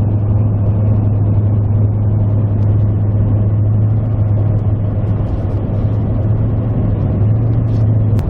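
Steady engine and road drone heard inside a moving vehicle's cabin, with a strong low hum.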